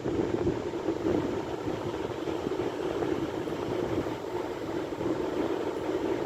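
Sea waves: a steady, even wash of surf.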